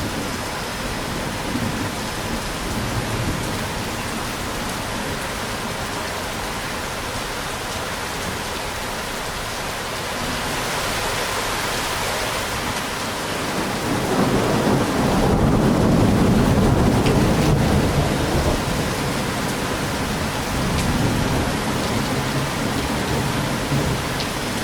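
Rain falling steadily with thunder rumbling; about two-thirds of the way through, a louder low roll of thunder swells for a few seconds and then eases.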